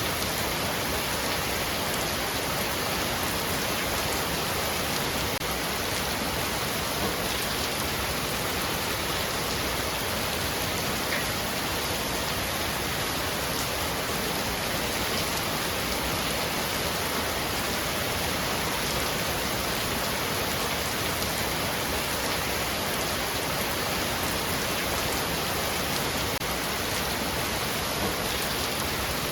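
Heavy rain falling steadily on a roof, an even, unbroken hiss of many drops.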